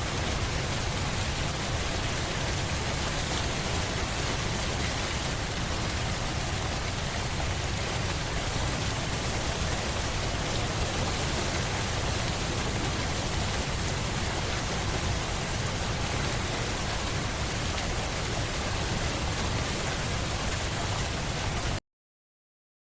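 Steady rain, an even hiss of rainfall on surfaces with a strong low rumble underneath, that cuts off suddenly into dead silence near the end.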